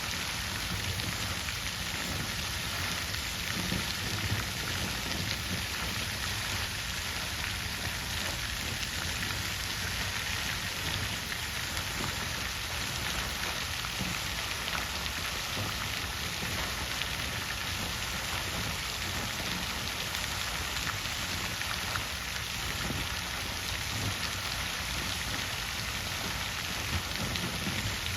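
Water fountain splashing steadily: a constant, even hiss and patter of falling water.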